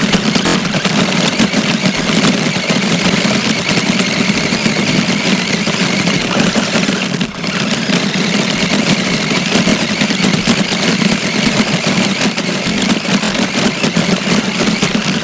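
An RC car running, heard from a camera riding on it: a steady, loud rushing noise with a low hum underneath, which dips briefly about seven seconds in.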